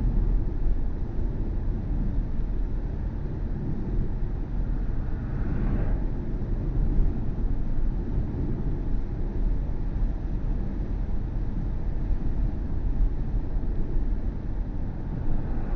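Steady road and tyre rumble of a BMW i4 M50 electric car driving, with no engine note, heard inside the moving car.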